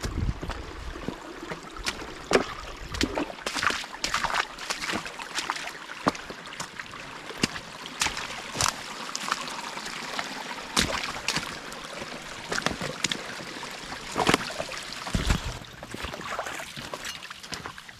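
Footsteps crunching irregularly on the forest floor as someone walks along a creek, with the creek trickling steadily behind them.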